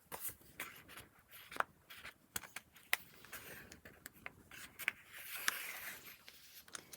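Paper pages of a handmade junk journal being handled and turned: light paper clicks and taps, with a longer rustle of paper sliding against paper about five seconds in.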